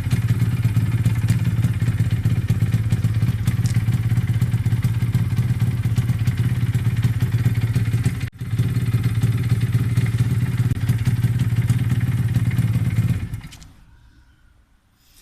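TVS Shogun motorcycle's 110 cc two-stroke engine running steadily at an even speed, with a momentary break about eight seconds in. The sound dies away a couple of seconds before the end.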